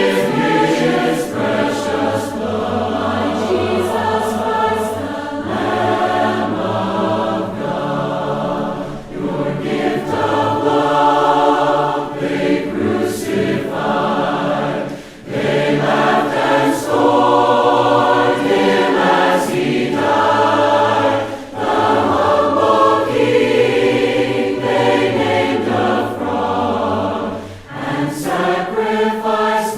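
A choir singing a hymn in several voices, unaccompanied, with sustained notes and short breaths between phrases.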